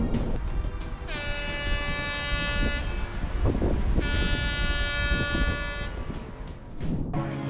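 A train's air horn sounds two long blasts, each of several tones together, about a second apart, over a steady low rumble.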